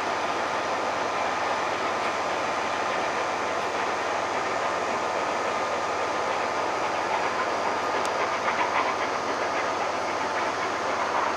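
Train of maroon passenger coaches rolling past, a steady running noise from the wheels on the rails. About seven seconds in comes a run of clickety-clack as wheels pass over rail joints, and another just before the end.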